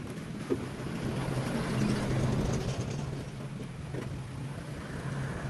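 A motor running with a steady low hum, a short knock about half a second in, and a rush of noise that swells around two seconds in and then eases.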